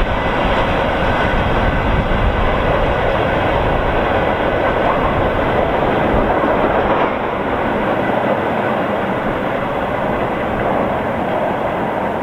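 Freight train wagons rolling past on the rails, a steady loud rumble of wheels. The rumble eases a little about seven or eight seconds in.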